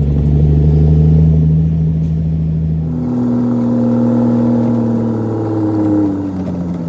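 Heavy diesel dump truck engine, a CAT C13, running under load. Its note changes abruptly about three seconds in, rises slowly, then falls away near the end.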